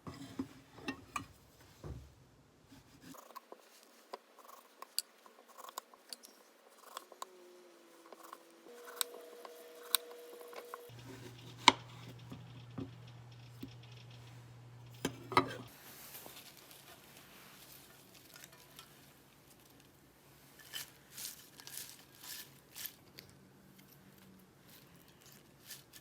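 Scattered light clicks and taps of small objects being handled, with a faint steady hum through the middle.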